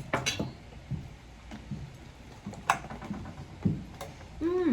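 Scattered light clicks and taps of cutlery on plates during a meal, with a brief voice-like sound near the end.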